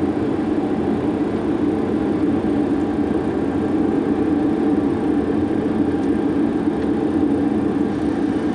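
Steady cockpit noise of an MD-80 airliner on final approach: an even rush of airflow and engine noise with a constant low hum, unchanging throughout.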